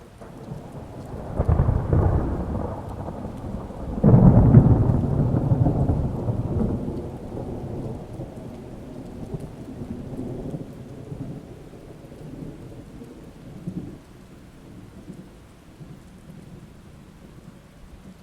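A roll of thunder over steady rain: it swells about a second and a half in, is loudest about four seconds in, and rumbles away slowly over the next ten seconds.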